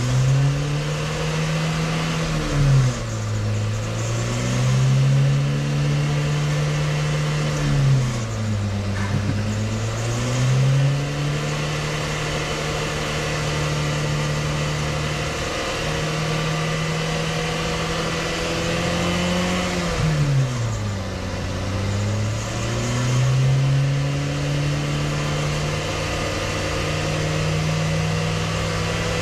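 Dacia Solenza engine, tuned with a big Garrett turbo, accelerating hard from inside the cabin. The engine note climbs steadily in each gear and drops sharply at three upshifts, about three, nine and twenty seconds in, as the car gathers speed.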